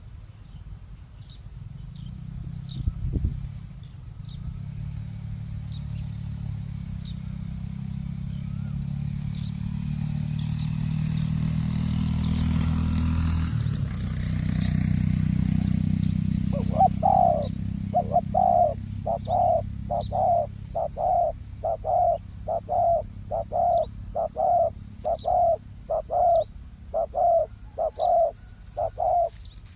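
A vehicle passes with a low rumble that builds to about 14 seconds in, then fades. From about 17 seconds a spotted dove coos in a steady run of short, evenly spaced notes, a little more than one a second. Small birds chirp faintly and high-pitched throughout.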